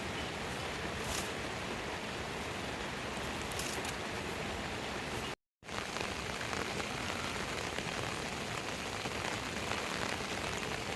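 Steady rain falling. The sound cuts out briefly about five seconds in.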